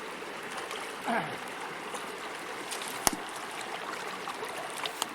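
Small river flowing steadily, an even rushing hiss of water. A short voice sound breaks in about a second in, and a single sharp click comes about three seconds in.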